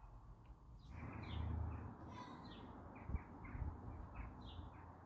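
Small birds chirping: a scattered run of short, high chirps, with a faint low rumble about a second in.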